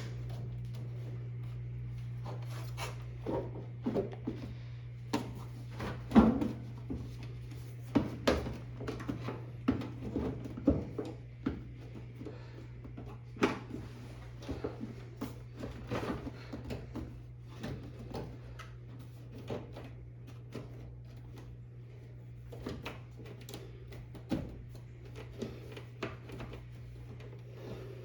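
Irregular clicks and knocks of hand work on a front-loading washing machine's door assembly while screws and parts are fitted, over a steady low hum.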